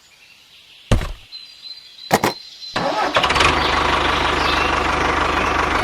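An engine being started: after a click and then a quick double click, it catches about three seconds in and runs steadily with a low rumble.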